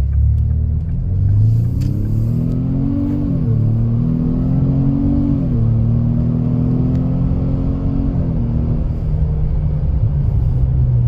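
A 2025 Ford Explorer's turbocharged 2.3 L EcoBoost four-cylinder with Jones Full Boar performance mufflers and the resonator deleted, accelerating hard at about three-quarter throttle. The exhaust note rises in pitch and drops with each upshift, three times, then settles to a steady cruise.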